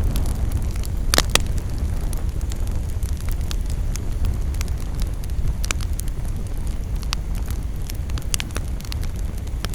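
Campfire burning, with scattered sharp crackles and pops over a steady low rumble; the loudest pops come in a quick cluster about a second in.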